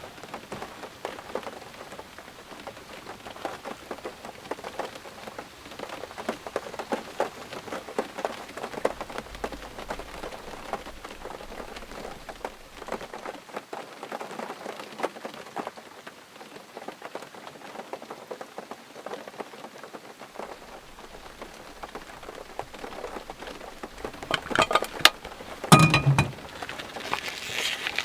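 Heavy rain falling steadily, with many close drops striking a surface. Near the end a short cluster of louder knocks and a low thud stands out over the rain.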